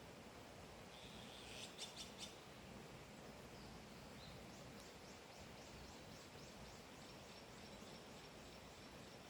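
Faint wild bird calls over a soft steady hiss: a quick cluster of chirps about two seconds in, then a long run of high, thin, evenly spaced notes, about four a second.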